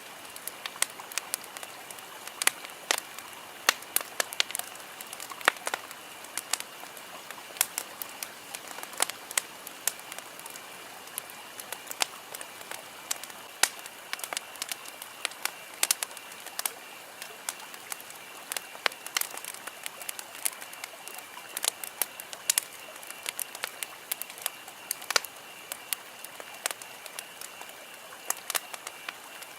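Wood campfire crackling: irregular sharp pops and snaps, several a second, over a steady hiss.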